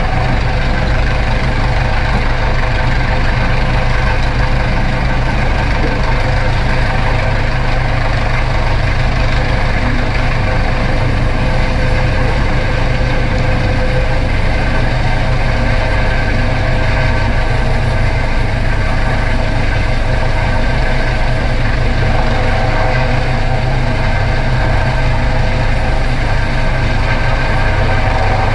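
Coast Guard MH-65 Dolphin helicopter running steadily at a hover, a continuous loud drone of rotor and turbine with a steady whine.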